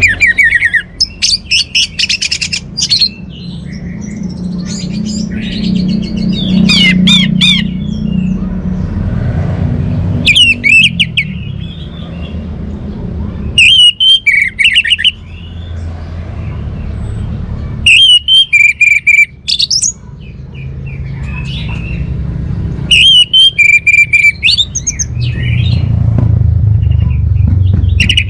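Orange-headed thrush (anis merah) singing: loud, varied whistled phrases of a second or two, repeated about every four to five seconds, over a low steady rumble.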